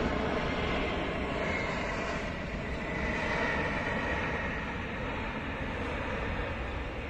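Jet engines of a Boeing 777 on landing approach: a steady rush of noise with a faint high whine, easing off a little near the end.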